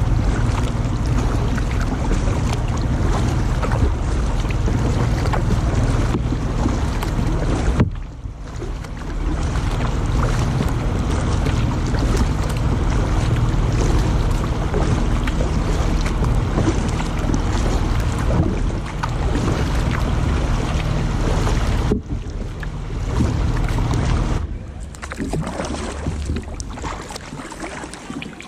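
Steady low rumble of motorboat engines on the river, mixed with water rush and wind on the microphone. The sound drops suddenly about eight seconds in and again about twenty-two seconds in, and it fades near the end.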